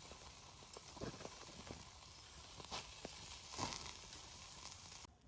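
Food sizzling over a campfire: a steady hiss with scattered crackles and pops, cutting off abruptly near the end.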